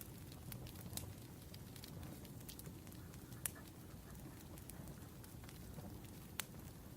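Wood fire crackling: a low, steady rumble of burning with scattered sharp pops at uneven intervals, the loudest about three and a half seconds in and another near the end.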